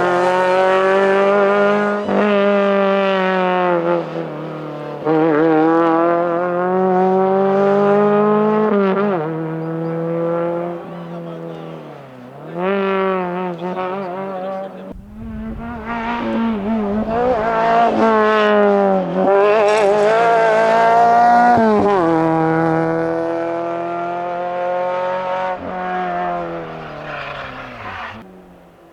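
Renault Clio rally car's engine revving hard under full throttle, its pitch climbing and then dropping sharply at each gearshift, again and again.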